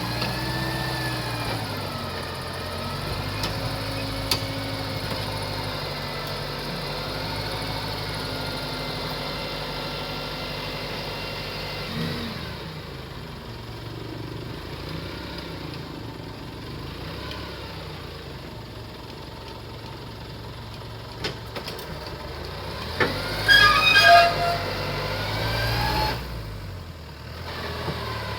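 Truck engine running, its pitch rising and falling as it is revved. A brief loud burst of higher-pitched sound about 24 seconds in.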